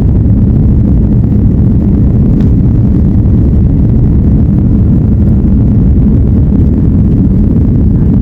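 Passenger plane's engines and rushing air as a steady, loud low rumble that holds even throughout.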